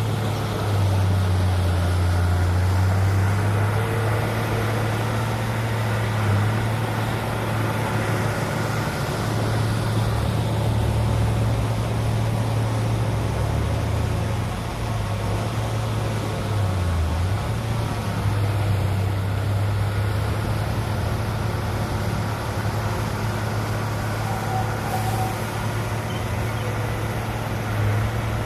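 Heavy diesel engine of earthmoving machinery running steadily under load, its low drone shifting briefly in pitch a few times around the middle.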